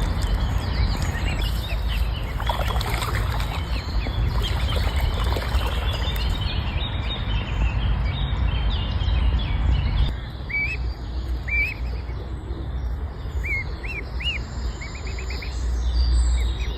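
Birds chirping and calling, short repeated notes, over a steady low rumble.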